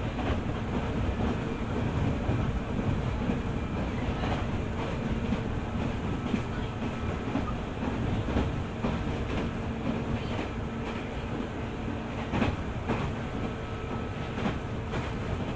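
JR 205 series 600-subseries electric train running at speed, with a steady rumble and a low hum from the running gear. Its wheels click over rail joints about every two seconds, the loudest click about three-quarters of the way through, and the hum fades away near there.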